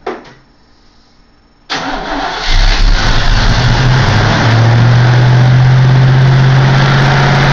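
The freshly rebuilt engine of a 1969 Pontiac Firebird cranks briefly and fires a little under two seconds in, then runs loud and steady.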